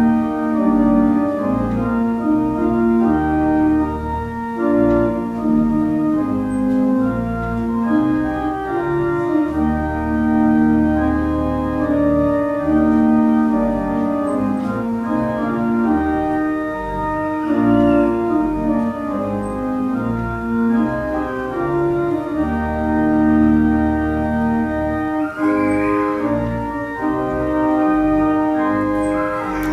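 Church organ playing offertory music: slow sustained chords with long-held deep bass notes underneath.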